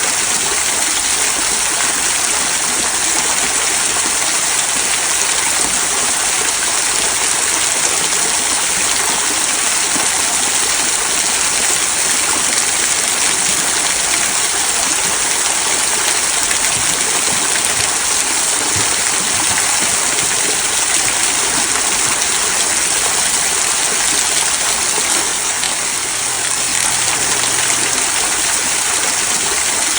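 Small rock waterfall trickling down moss-covered stones into a stream: a steady splashing and babbling of running water.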